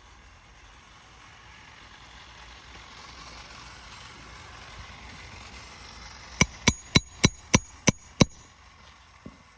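Hammer driving a roofing nail through asphalt shingles: seven quick ringing strikes, about three a second, starting some six seconds in.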